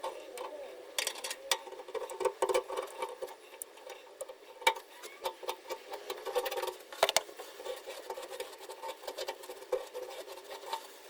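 Irregular scraping and sharp clicks of hand tools and small metal parts being worked while the fuel tank sender unit is cleaned of old gasket and silicone.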